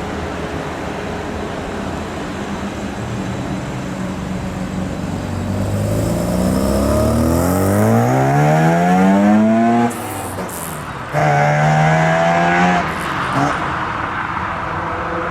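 A classic car's engine idling, then revving up as the car accelerates away, its note rising steadily until it breaks off about ten seconds in at a gear change. It picks up again with a steady higher note for a couple of seconds before backing off.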